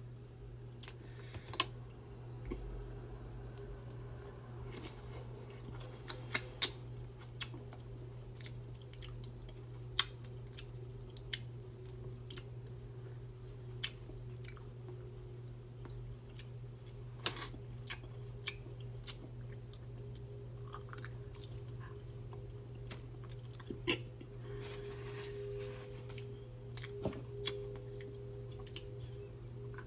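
Close-miked eating of a seafood boil: chewing with scattered sharp clicks, crunches and smacks, over a steady low hum.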